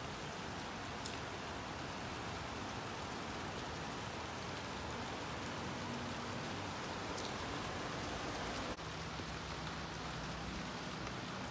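Steady rain falling on tiled paving and potted plants, an even hiss without a break.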